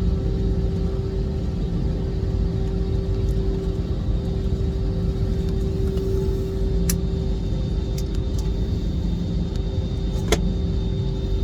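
Steady low rumble of a jet airliner's engines with a constant droning hum, and a couple of faint clicks.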